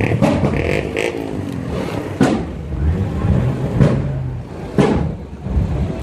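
Modified car engines revving as cars pull away, with a rev rising in pitch about half a second in. Several sharp cracks stand out over the engine noise, about two, four and five seconds in.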